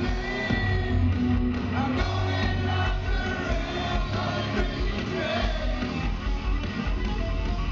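Live heavy metal band playing loud, with distorted electric guitar, bass and drums and a voice singing over them.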